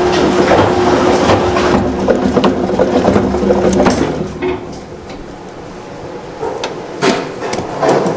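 A machine running with a steady hum and rattle, which dies down about four seconds in; a few sharp knocks and clatters follow near the end.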